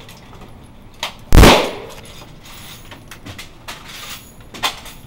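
One loud, short blast of fire from an M249 squad automatic weapon about a second and a half in, trailing off over half a second. Fainter sharp cracks come a few times around it.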